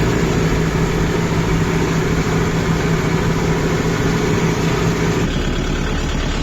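Kubota MU5502 tractor's four-cylinder diesel engine running steadily; about five seconds in its note changes abruptly and the higher hum drops away.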